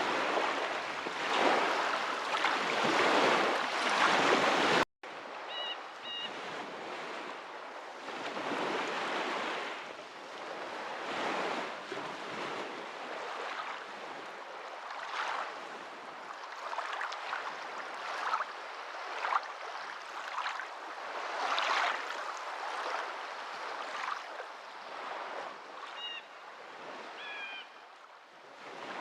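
Water washing and splashing steadily, without pause. About five seconds in, the sound cuts out for an instant and resumes quieter and thinner. A few faint, short, high chirps are heard just after the cut and again near the end.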